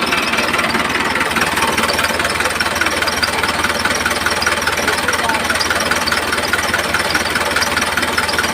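Homemade mini tractor's small motor running steadily, with a fast, even rattle.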